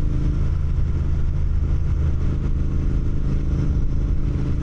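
Motorcycle engine running steadily, its pitch holding even with no revving.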